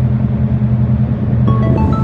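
Tugboat diesel engine running with a steady low drone; about one and a half seconds in, short melodic notes of music begin over it.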